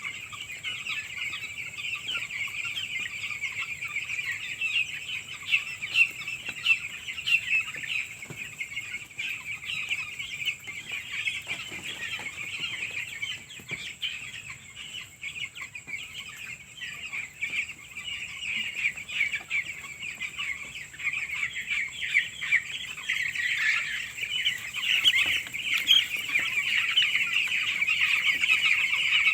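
A flock of nine-day-old chicks peeping continuously, many high-pitched cheeps overlapping, growing louder over the last several seconds.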